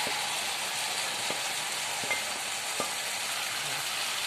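Tomato-onion masala sizzling steadily in a frying pan as fried soya chunks and scrambled egg are scraped into it from a plate, with a few light spatula taps.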